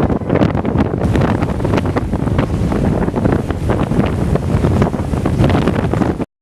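Loud gusting wind buffeting the microphone, a dense rushing rumble. It cuts off abruptly near the end.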